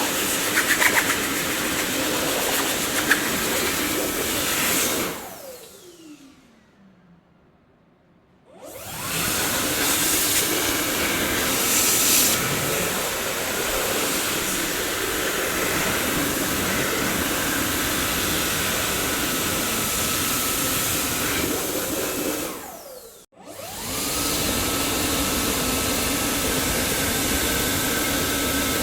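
Dyson vacuum cleaner motor running with a steady rushing whine. About five seconds in it is switched off and the motor winds down with a falling whine to near silence, then restarts a few seconds later with a rising whine; near the end it cuts out and comes straight back on again.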